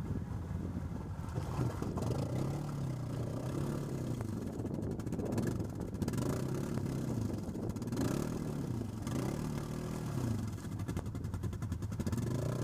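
An ATV engine revs up and down again and again, its pitch rising and falling about every second and a half, as the quad struggles for grip and fails to pull through.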